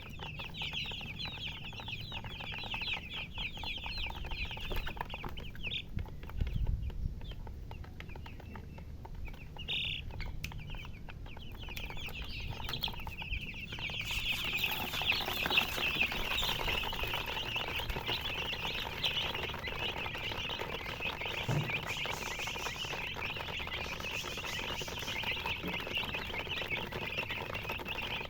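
A flock of baby chicks peeping, a dense chorus of many short high cheeps overlapping; it thins out for a while and grows fuller again about halfway through.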